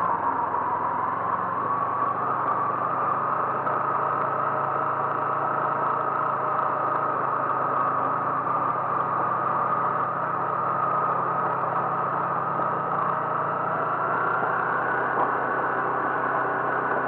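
Vehicle engine and road noise running steadily, with a whine whose pitch rises gently near the end.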